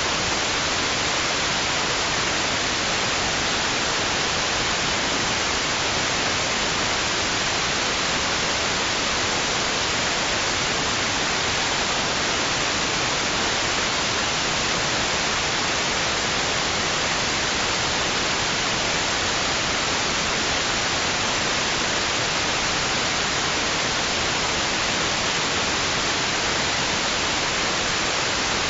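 Steady white-noise hiss, perfectly even in level with no swells or changes.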